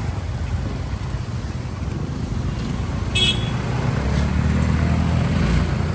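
Motor vehicle running amid road traffic noise, with a steady low rumble that grows louder in the second half. A brief high-pitched toot sounds about three seconds in.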